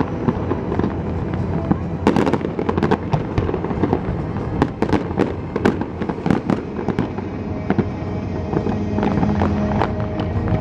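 Aerial fireworks going off in a rapid, irregular volley of bangs and crackles, densest in the middle and thinning out near the end.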